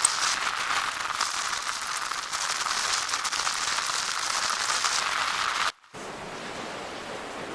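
Mainsail cloth crinkling and rustling in dense, fine crackles as it is handled and wrapped on the boom. About six seconds in it cuts off abruptly and gives way to a steady rush of wind and water.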